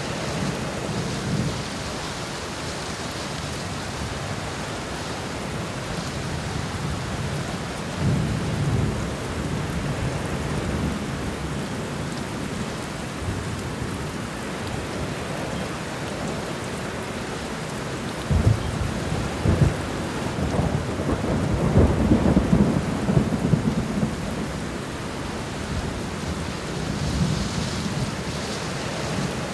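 Thunderstorm: steady rain with rolling thunder. A low rumble comes about eight seconds in, and a louder, longer rumble with sharp cracks follows around eighteen seconds in and lasts several seconds.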